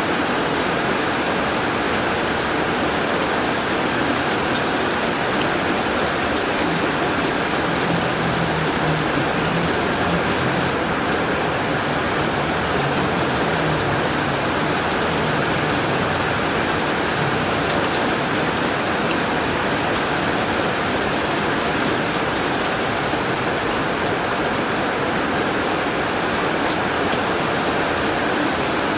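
Heavy rain falling steadily on a tin roof: a dense, even hiss of drops striking metal. A faint low rumble sits under it in the middle.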